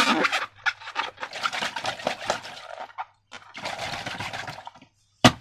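Wet, sticky squelching and crackling of slime being squeezed and worked by hand, in two stretches, with a single sharp click near the end.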